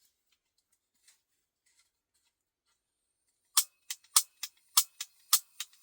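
Piezo igniter of a propane blowtorch clicking about nine times in quick, uneven succession, after a few seconds of near silence.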